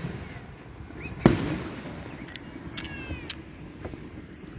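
Fireworks going off: one loud boom with a rumbling tail about a second in, followed by several sharp cracks.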